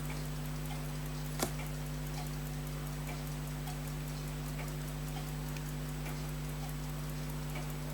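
Faint, regular mechanical ticking over a steady electrical hum, with one sharp click about a second and a half in.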